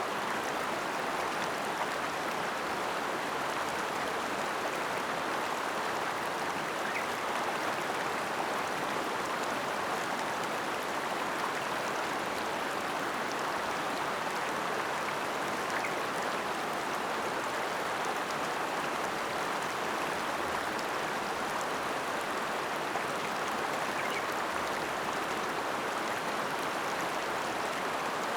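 Mountain river water flowing steadily over rocks, an even rushing with faint splashes.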